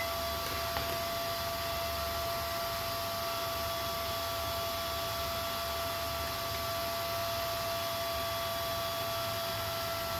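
Steady hiss with a constant high-pitched electrical hum.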